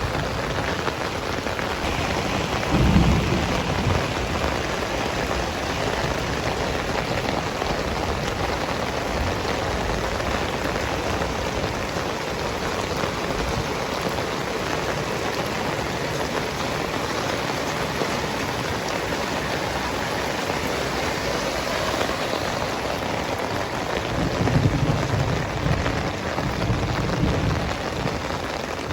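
Heavy rain falling steadily, a dense even hiss. Thunder rumbles low twice: briefly about three seconds in, and longer near the end.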